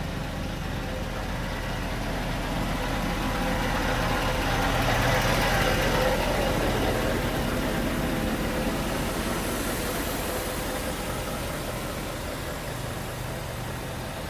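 Scania R520 V8 diesel truck engine idling steadily. A broad swell of noise rises to a peak about six seconds in and then eases off.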